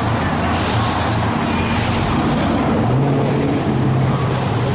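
A car engine running close by amid traffic noise, its pitch stepping up slightly about three seconds in.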